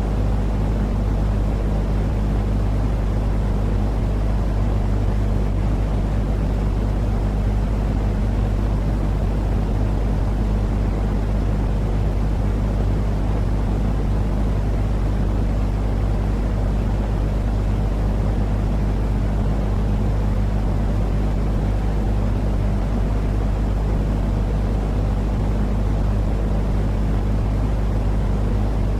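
Steady, unchanging white-noise track for sleep: a deep rumbling hiss with a constant low hum underneath.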